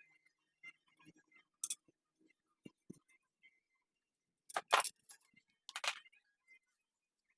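Metal tools and parts clinking and tapping against each other while being handled during engine work: scattered light ticks, a sharp clink about two seconds in, and the loudest pair of metallic strikes just past the middle, with another clink soon after.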